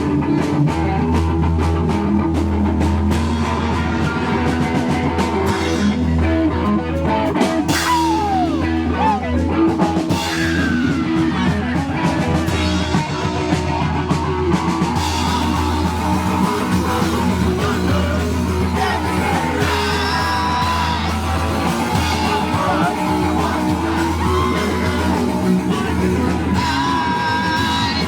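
Punk rock band playing live, with distorted electric guitar, drums and a singer, loud and continuous.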